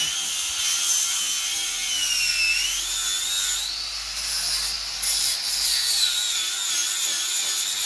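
Angle grinder working on metal: a high-pitched whine over a grinding hiss, its pitch dipping and recovering a couple of times.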